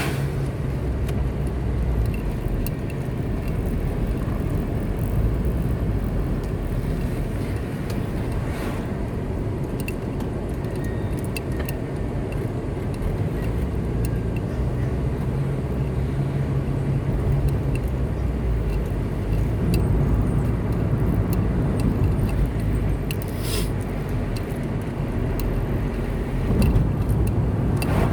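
Car driving along a road: steady low engine and tyre rumble, with brief swishes at the start, about nine seconds in and a few seconds before the end.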